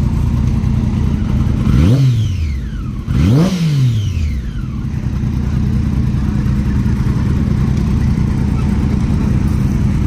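Sport motorcycle engine idling, blipped twice with the throttle about two and three and a half seconds in. Each rev climbs quickly and falls back to a steady idle.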